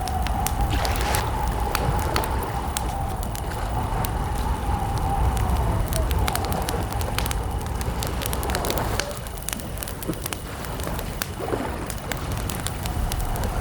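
Wood campfire crackling, with frequent sharp pops over a low steady rumble. A steady, wavering mid-pitched tone runs beside it and dips and breaks off about nine seconds in.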